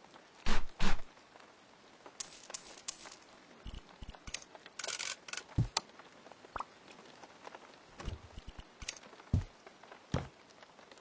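Hard objects being handled and set down: two loud knocks near the start, then light clinking and scattered taps and knocks.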